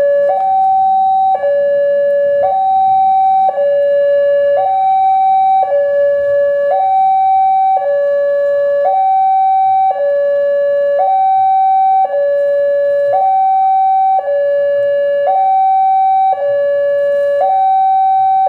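Railway level-crossing warning alarm sounding, a loud, steady two-tone pattern that switches between a higher and a lower tone about once a second: the signal that a train is approaching the crossing.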